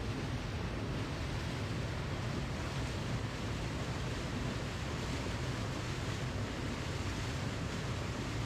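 Steady rushing of falling water, an even noise without breaks, heaviest in the low end.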